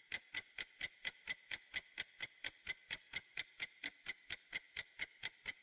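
Quiz countdown-timer sound effect: clock-style ticking, even and rapid at about five ticks a second.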